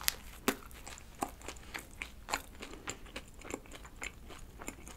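Close-miked bite into a rice-flour-dusted, cream-filled donut, then chewing, with a run of small wet mouth clicks and faint crunches of the slightly crisp crust. The bite gives the two sharpest clicks at the very start.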